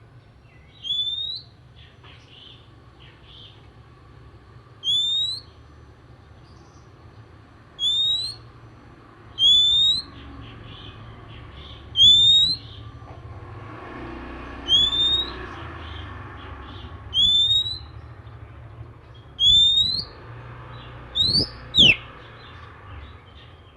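Oriental magpie-robin (kacer) singing: a short, clear, rising whistle repeated about every two to three seconds, roughly ten times. Near the end the bird adds a quick falling note.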